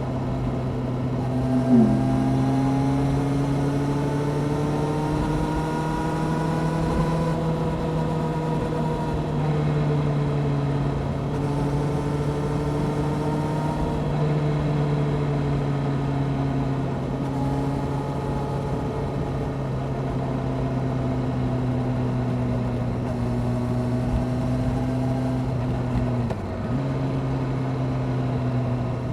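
Honda CBR600F Sport's inline-four engine, through an aftermarket Delkevic exhaust, running at a steady cruise with its pitch rising and falling gently. There is a short loud blip about two seconds in, and the engine note briefly dips near the end.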